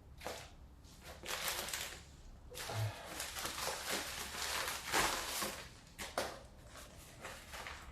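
Rustling and crinkling of a mail envelope being handled and opened, in several short bursts.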